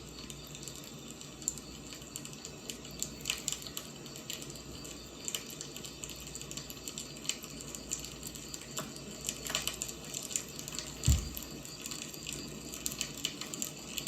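Wood fire burning, with irregular crackles and small pops over a steady low hiss, and one louder dull thump about eleven seconds in.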